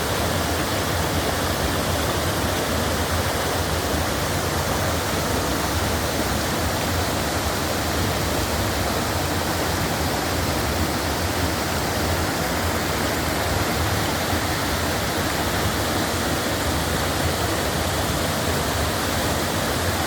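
Waterfall: falling water pouring and splashing into a pool in a steady, unbroken roar.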